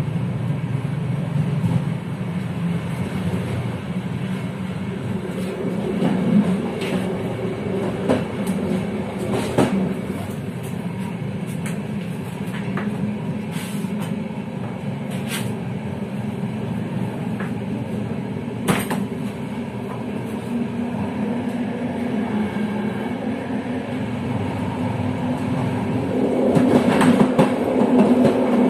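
A passenger train running on the line, heard from the rear of the train: a steady rolling rumble with sharp clicks from the wheels now and then. Near the end it grows louder and busier as the train runs over a set of points.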